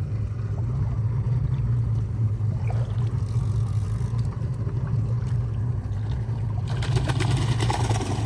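A boat engine running steadily with a low hum. About seven seconds in, a brief rush of rattling noise rises over it for a second or so.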